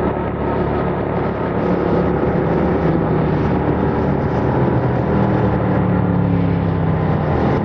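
Yamaha MT-07's 689 cc parallel-twin engine running under way through its stock exhaust. The engine note holds fairly steady, rising slightly about two seconds in and dipping near the end.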